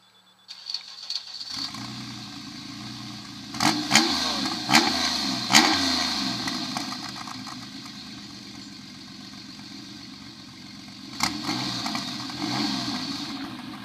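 TVR Sagaris's straight-six engine cranked and started, then blipped several times, with sharp cracks from the exhaust at the peaks of the revs, before settling to a steady idle. One more rev with a crack comes near the end.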